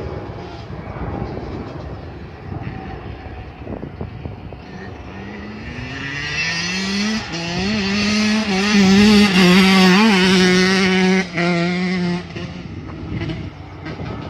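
Two-stroke dirt bike engine revving, its pitch climbing in two steps as it shifts up, then running hard and loudest for a few seconds. The throttle is cut off briefly near the end before the engine fades away.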